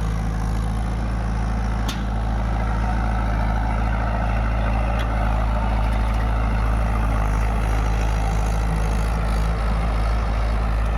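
Tractor diesel engine running steadily at a constant speed, with a faint click about two seconds in.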